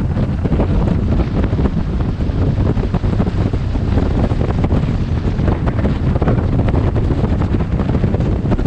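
Wind buffeting the microphone of a helmet-mounted camera while riding a motorcycle. It is a steady, loud, rumbling rush with constant flutter and no pauses.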